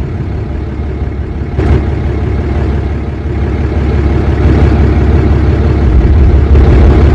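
Steady low rumble of a road vehicle, with a short swish about one and a half seconds in and a swell in loudness from about four seconds on.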